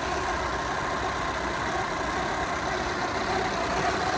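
Volkswagen Jetta TDI's four-cylinder turbodiesel engine idling steadily, with the rough idle that shakes the car.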